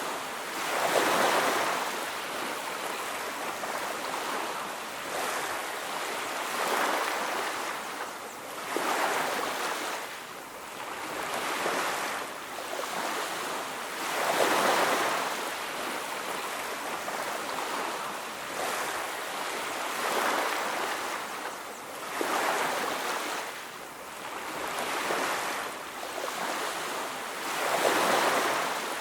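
Ocean surf washing onto a beach: a steady hiss that swells with each breaking wave every few seconds.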